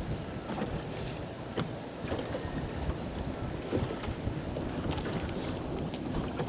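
Wind noise on the microphone and choppy waves slapping against the boat's hull, with a few short knocks now and then.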